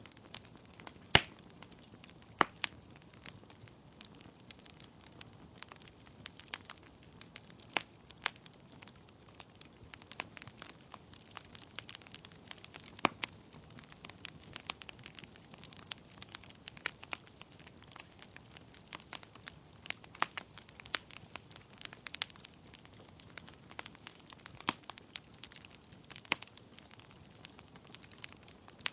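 Wood fire burning in a fireplace: a soft steady hiss with irregular crackles and sharp pops from the logs, the loudest pop about a second in.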